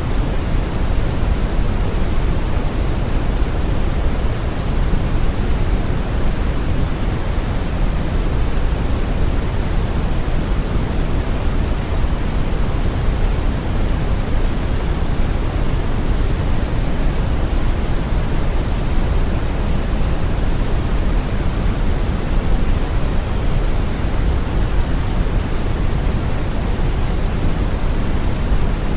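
Steady brown noise: a deep, even rumbling hiss, loudest in the bass and dark in the treble, unchanging throughout.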